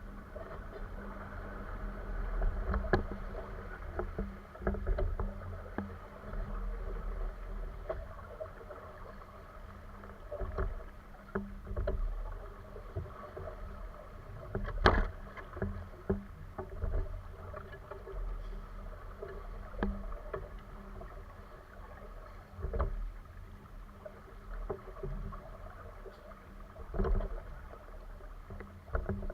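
Boat under way: water splashing and sloshing against the hull, with irregular knocks, the loudest about halfway through, over a steady low hum.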